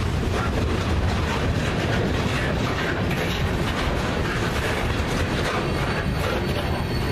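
Freight train's loaded centerbeam flatcars rolling past, steel wheels running on the rails in a steady loud rumble as the last car goes by. A thin high tone joins near the end.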